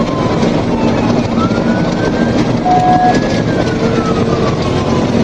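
Inside a police car at high speed in a pursuit: steady engine, road and wind noise, with a siren wailing in one slow rise and fall.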